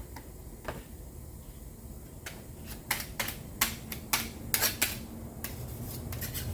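A quick, irregular run of about a dozen sharp clicks and taps of small hard objects, starting about two seconds in and ending near the end, over a low steady hum.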